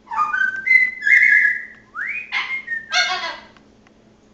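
Amazon parrot whistling a short run of clear notes that step up in pitch, then a quick rising whistle, ending in a harsher call about three seconds in.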